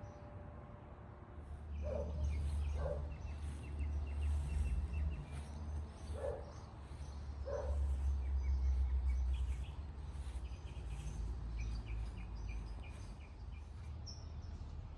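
Small birds chirping in quick, repeated short notes, with four short lower calls in the first half, over a low rumble that swells and eases.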